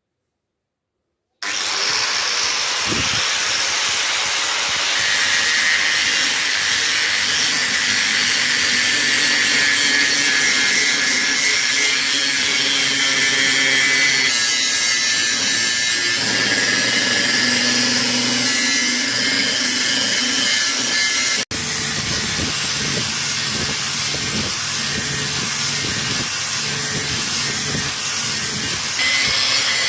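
Power tool abrading rust off a steel cleaver blade: a steady, harsh scraping whir that starts abruptly about a second and a half in, with a momentary break about two-thirds of the way through.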